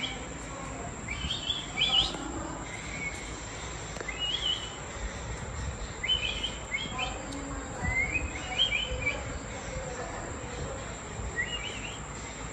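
Small birds chirping: short, high, upward-gliding notes in little clusters, repeating every second or two over a steady low background hum.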